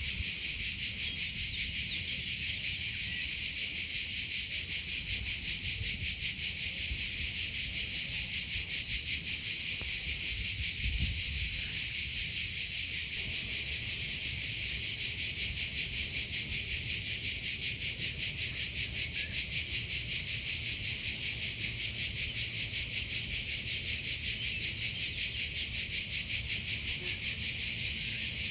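Cricket chirping in a continuous, high, rapidly pulsing trill that holds steady without a break.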